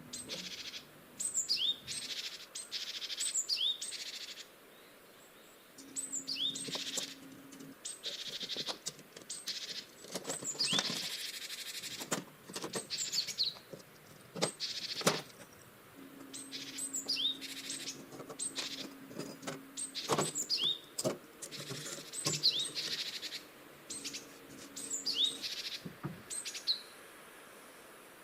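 Birds chirping in short, repeated phrases of quick sweeping notes, with scattered sharp clicks and knocks. A low steady hum comes and goes several times.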